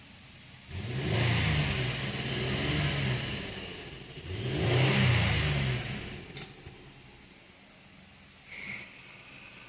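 2013 Ford Edge engine revved twice, each rev rising in pitch and falling back to a quiet idle. It is running on a newly replaced fuel pump.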